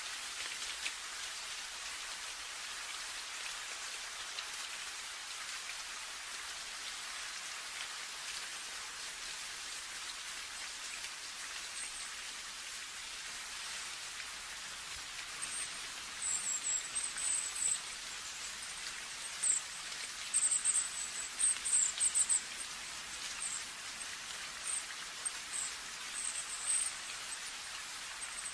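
Steady rain falling, an even hiss. About halfway through, short high-pitched chirps start coming and going above the rain.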